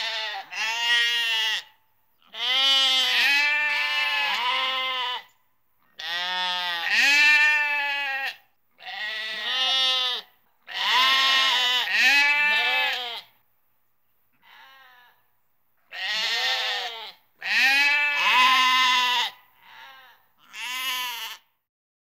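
Sheep bleating: a run of about ten wavering baa calls, some long and drawn out, with short silent gaps between them; two of the calls are faint.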